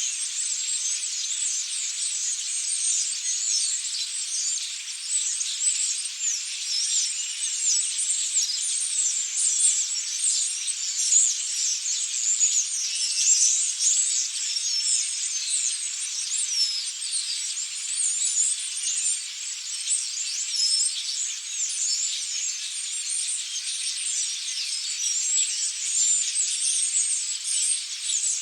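A large flock of European starlings chattering: a dense, unbroken mass of many overlapping high chirps and whistles.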